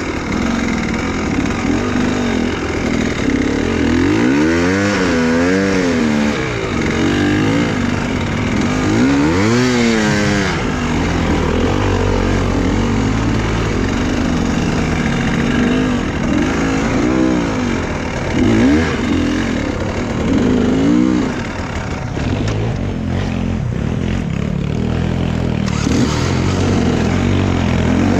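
Enduro motorcycle engine revving up and down over and over, its pitch climbing and dropping in repeated swells.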